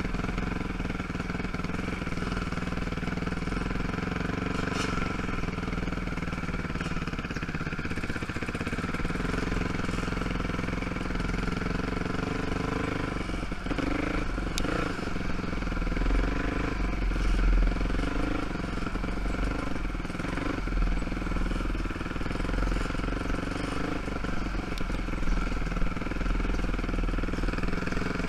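ATV engine running steadily at low speed, its pitch rising and falling a little with the throttle. Clattering knocks come about halfway through.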